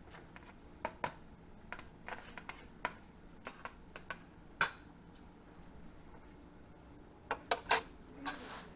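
Scattered light clicks and knocks of dishes and utensils being handled, with a quick run of sharper knocks about seven and a half seconds in and a short rustle after it.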